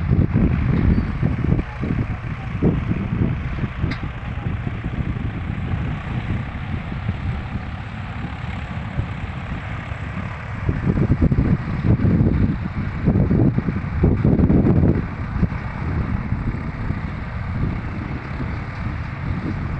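Tractor engine running in a field under a heavy low rumble, which swells irregularly near the start and again for a few seconds past the middle.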